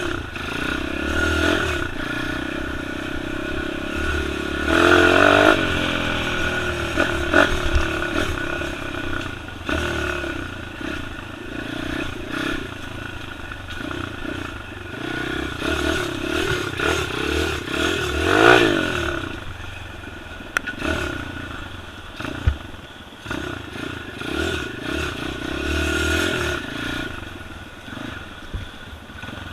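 Pit bike engine revving up and down over and over while the dirt bike is ridden off-road, with occasional knocks. The revs peak hardest about five seconds in and again a little past halfway.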